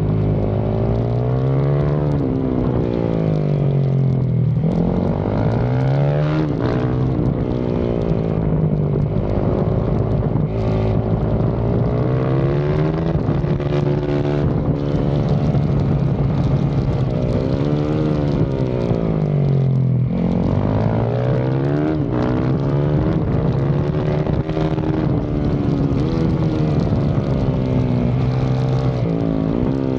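Yamaha YZ450FX's 450cc single-cylinder four-stroke engine under hard riding on a lap, its pitch climbing as it accelerates and dropping away into the corners several times over, with a steady rush of wind and road noise underneath.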